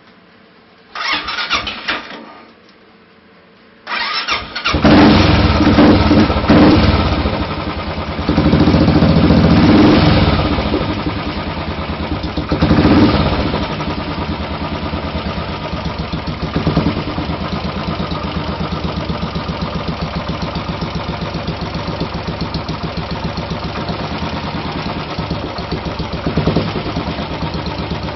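Single-cylinder Royal Enfield 500 motorcycle engine with an MG-Race aftermarket exhaust, cold-started: a short burst about a second in, then about four seconds in it catches, is blipped up several times, and settles into a steady, evenly thumping idle.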